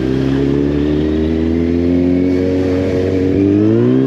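Kawasaki Z800 motorcycle's inline-four engine running at steady revs, then rising in pitch near the end as the bike accelerates.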